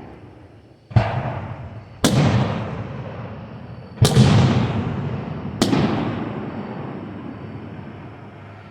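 Fireworks bursting overhead: four sharp booms about a second apart and then two seconds apart, each trailing off in a long rumble.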